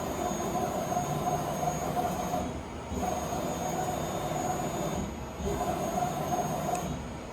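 Z-axis drive of a Bridgeport Romi EZ Path SD CNC lathe jogging the carriage, with a steady whine. It moves in three runs of about two seconds each, with brief stops between them, and then stops near the end.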